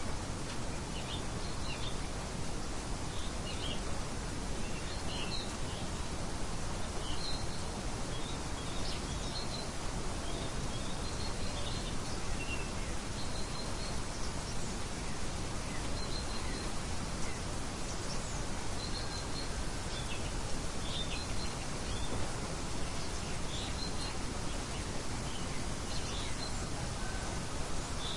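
Steady rain hiss with small songbirds chirping in short, high calls repeated all the way through.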